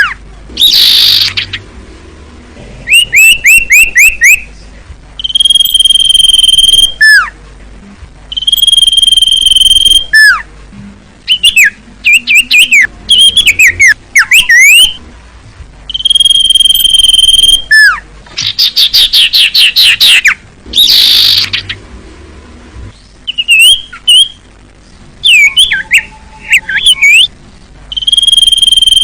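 Recorded song of a cipoh (common iora), loud and repeated: long steady whistles, each ending in a sharp downward slur, alternate with fast series of short rising notes, in phrases a second or two apart.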